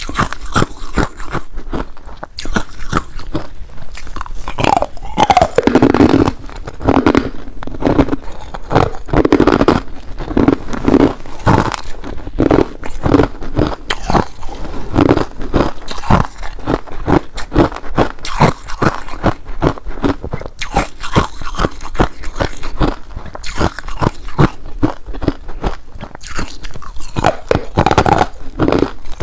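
Ice being bitten and chewed: a dense run of irregular crunches and cracks with no let-up, a little louder from about five to eleven seconds in and again near the end.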